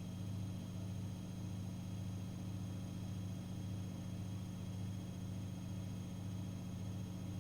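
Miele Professional WS5436 washing machine running mid-cycle, a steady low hum with a slight regular pulse.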